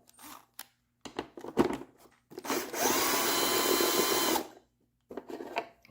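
Power drill turning a long Phillips extension bit for about two seconds to drive out a deep-set screw in the pressure washer's plastic housing, the motor spinning up and winding down. A few light clicks and taps of handling come before it.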